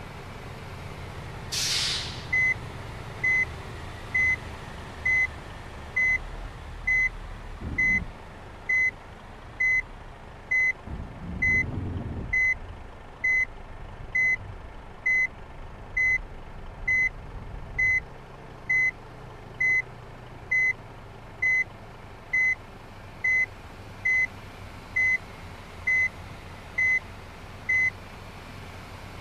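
A bus's reversing alarm beeping at a single high pitch, just over once a second, over the low running of its engine. A burst of air-brake hiss comes just before the beeping starts.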